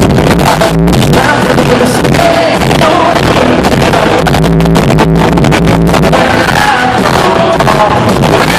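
Live country band performing a song, with a lead voice singing over guitars and drums. The sound is loud and dense throughout.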